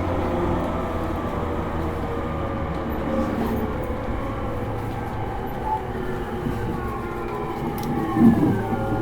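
Running sound of a JR East E231-series electric train, heard inside a motor car: steady wheel and rail rumble with the traction motors' whine gradually falling in pitch as the train slows. A short knock comes about eight seconds in.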